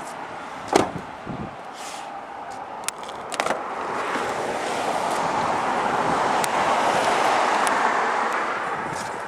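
A road vehicle passing by: a broad rushing noise that swells over several seconds, loudest about two thirds of the way in, then fades. A sharp knock comes about a second in, and a few light clicks follow around three seconds in.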